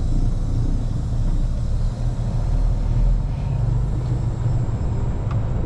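Diesel engine of a semi tractor running with a steady low rumble, heard from inside the cab.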